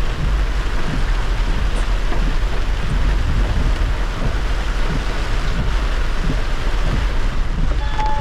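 Heavy rain on a moving car, over a steady low rumble of tyres on the wet road. Near the end a few short steady tones begin.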